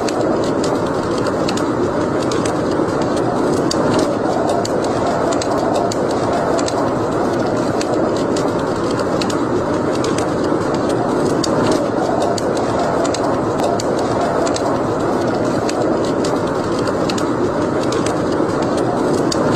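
Wood fire in a fireplace crackling and popping irregularly over a steady rushing noise.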